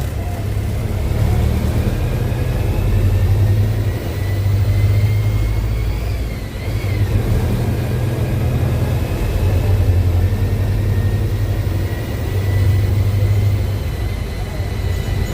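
Mercedes-Benz OF-1721L bus diesel engine pulling the bus along, its low drone swelling and easing as it accelerates and backs off. A high whine climbs slowly in pitch with road speed, drops briefly about six seconds in, then climbs again.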